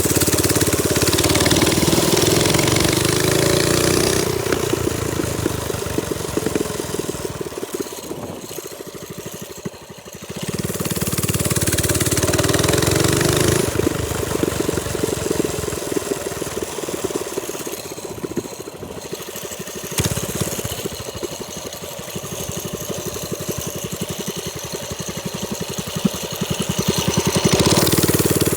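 Trailmaster Storm 200 minibike's small single-cylinder four-stroke engine running under way. It revs up three times, rising in pitch each time: near the start, about eleven seconds in, and near the end. In between it eases off to a lower, quieter note.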